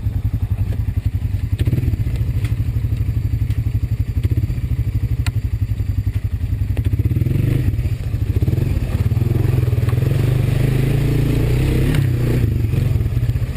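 Honda ATV's single-cylinder four-stroke engine running in second gear with a steady, even beat, getting somewhat louder and rougher from about eight seconds in, with some clatter.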